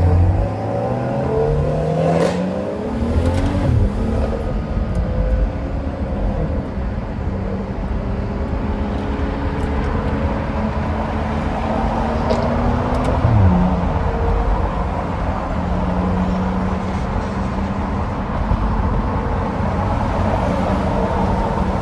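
Car engine pulling through a gear with a rising note, dropping at a gear change about three seconds in, then running steady at cruise. The note drops again about thirteen seconds in as the car eases off.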